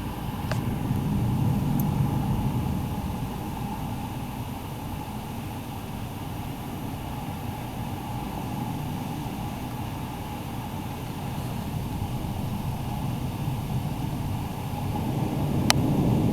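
Thunderstorm wind gusting: a low rumbling rush that swells about a second in and again near the end. A single sharp click comes near the end.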